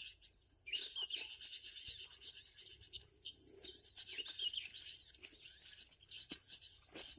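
Dense, overlapping chirping and twittering of many small birds, over a steady high whine, with two sharp clicks near the end.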